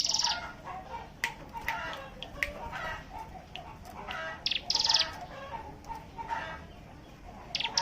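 Several ciblek gunung (a prinia) singing together in a busy chorus of chirps and warbled phrases, with loud, rapid buzzing trills (the 'ngebren' song) at the start, around five seconds in, and near the end.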